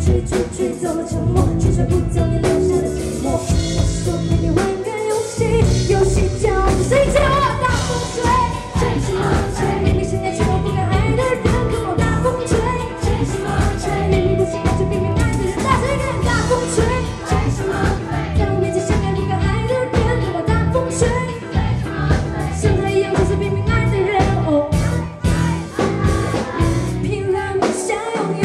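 Live pop-rock band music with a steady beat and singing.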